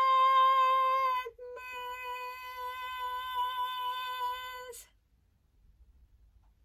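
A high singing voice holding one long note, strong for about a second, then after a short break carried on more softly for about three more seconds before it stops, leaving faint room tone.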